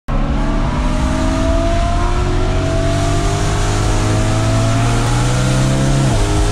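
Loud BMW E92 M3 4.0-litre V8 pulling steadily in second gear, its pitch rising slowly, then dropping abruptly near the end as it shifts up to third.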